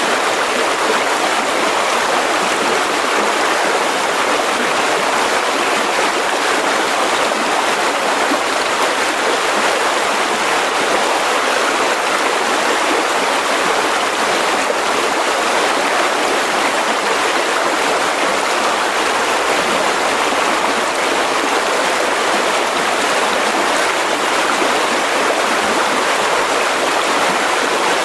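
Mountain river rushing steadily over rocks: a constant, loud wash of water with no breaks.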